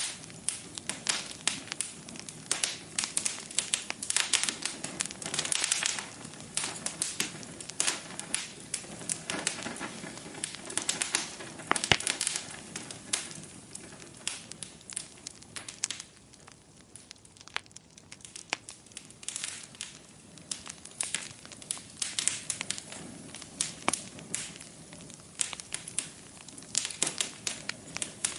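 Wood fire burning in a fireplace, crackling and popping with irregular sharp snaps over a soft steady hiss. The crackling thins out for a few seconds past the middle, with one louder pop about twelve seconds in.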